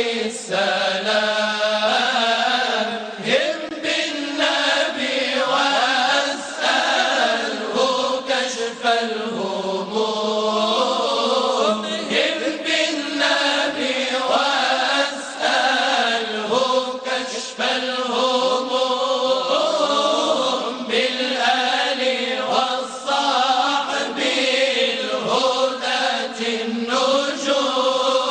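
Moroccan madih nabawi, a chanted religious song in praise of the Prophet Muhammad: voices sing long, drawn-out melodic lines without a break.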